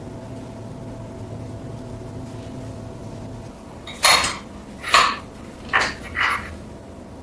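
Metal parts clanking against each other four times in a workshop, sharp and ringing, after a steady machine hum stops about three and a half seconds in.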